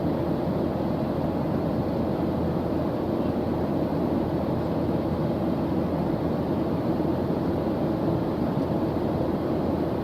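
Steady noise track: an even, low rushing hiss with no changes, played as white noise for studying.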